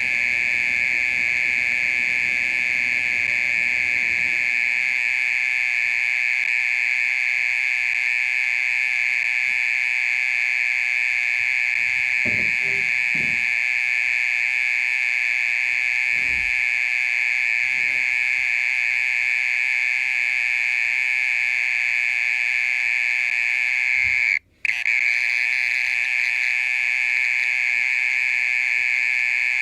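Mole cricket singing a continuous, steady high-pitched trill that breaks off for a moment once near the end.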